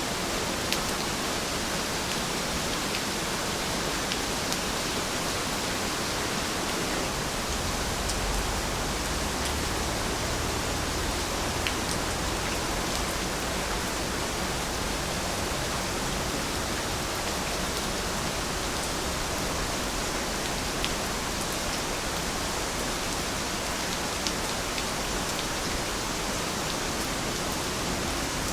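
Heavy rain falling steadily: a dense, even hiss with scattered sharper drop ticks. A low rumble joins about eight seconds in.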